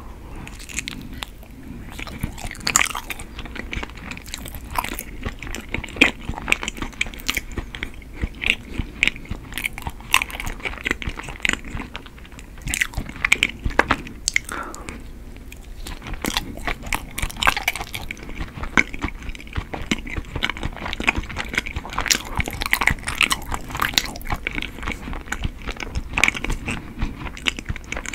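Close-miked chewing and biting of chewy Korean glutinous rice cake (chapssal gyeongdan), a steady run of quick sticky mouth clicks several times a second.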